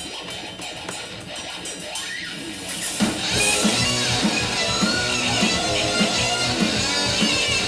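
Guitar music: a quieter guitar part, then about three seconds in a fuller, louder section comes in with a steady beat.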